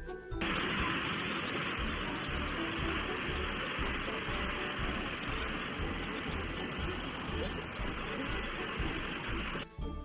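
A steady rushing, hissing noise like gushing water, cutting in abruptly and stopping abruptly near the end, over background music with a low pulsing beat.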